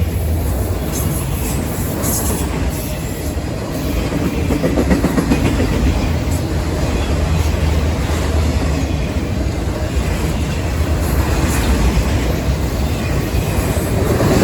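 Train rolling past, with a steady low rumble and the clickety-clack of its wheels over the rail joints.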